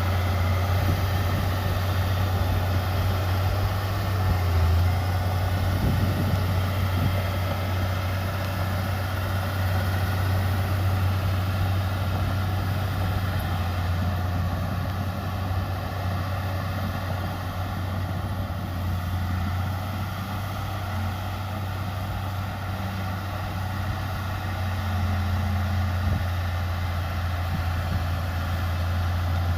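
Diesel engine of heavy earthmoving machinery running steadily with a low drone; it eases a little around the middle and picks up again near the end.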